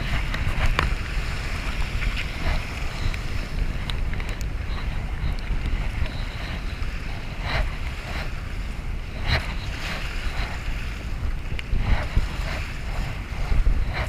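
Kayak on the river: water splashing at irregular intervals, likely paddle strokes and water against the hull, over steady wind buffeting the microphone.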